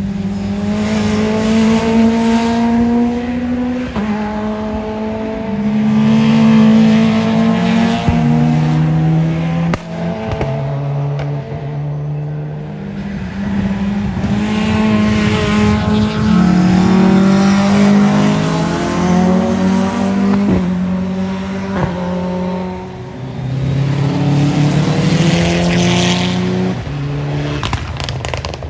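Rally car engines at high revs through a corner, the pitch stepping up and down with gear changes and throttle lifts. A few sharp cracks come through about 8, 10 and 20 seconds in.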